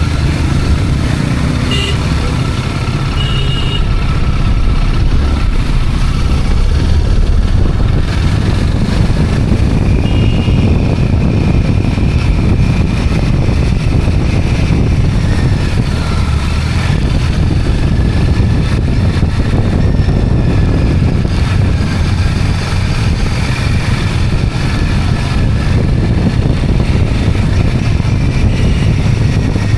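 A two-wheeler being ridden on the road: a steady, loud low rumble of engine and road noise. A few short high tones come in about two and three seconds in and again about ten seconds in.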